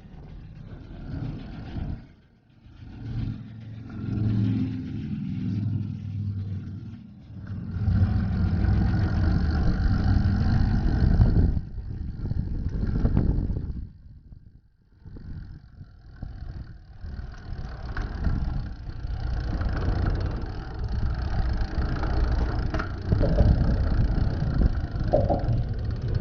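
Wind buffeting the microphone of a small action camera while cycling: a rough low rumble that swells and fades, dropping out briefly about two seconds in and again around the middle.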